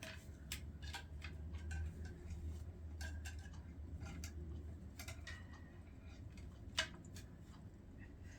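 Light, irregular clicks and taps from an African grey parrot's beak and claws as she climbs about her perch toy, with one louder click near the end, over a low steady hum.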